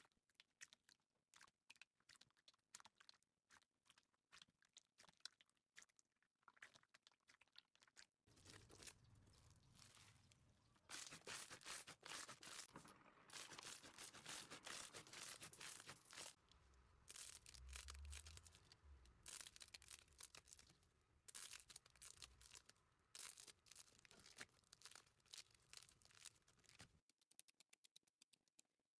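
Slime being handled, heard as faint sticky crackling and popping. Scattered ticks at first, then a denser, louder crackle from about eight seconds in, thinning again near the end.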